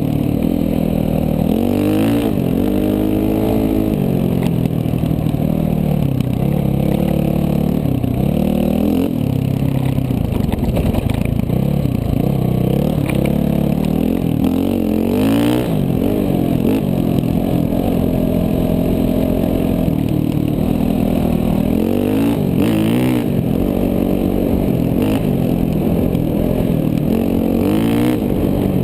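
KTM 450 dual-sport dirt bike's single-cylinder four-stroke engine under way, its pitch rising and falling again and again as the throttle is opened and closed and gears change.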